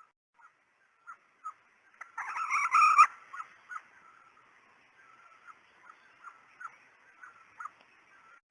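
Female red junglefowl clucking: a series of short, soft clucks roughly two a second, with one louder, harsher cackle about two seconds in that lasts about a second. This is the hen's call that hunters use as a decoy sound to draw in junglefowl.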